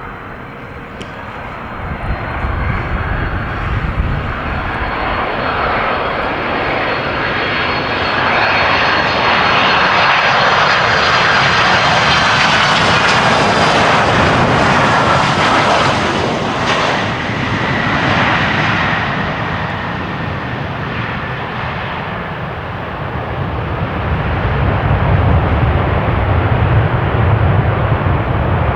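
Boeing 767 airliner's twin jet engines passing close on the landing approach, a loud rushing roar with a high whine that swells to a peak about midway and then fades. A low rumble builds near the end as the jet rolls out on the runway.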